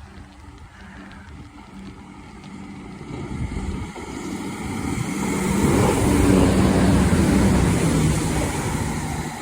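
Diesel train passing through the station, its engine a steady low drone under the rumble of the wheels. It grows louder to a peak about six seconds in, then begins to fade.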